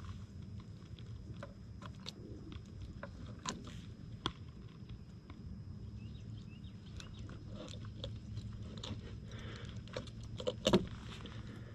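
Scattered small clicks, rattles and light knocks of fishing tackle being handled while a ray is unhooked for release, over a steady low rumble. A louder knock comes near the end.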